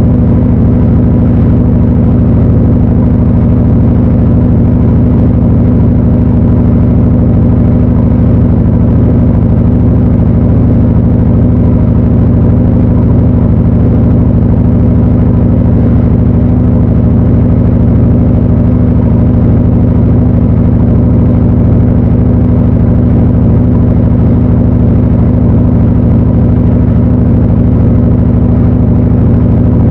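Panasonic NA-FA80H8 top-loading washing machine running with a loud, steady hum made of several low tones, unbroken and without pauses.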